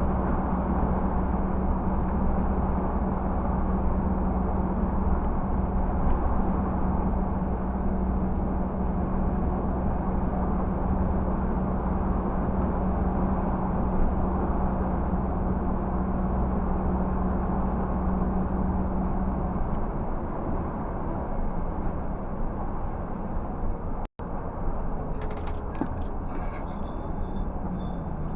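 Scania 360 truck's diesel engine running steadily under load while climbing a hill, with a constant droning note. About twenty seconds in the low rumble eases off, and near the end there are a few faint clicks and a lower engine note.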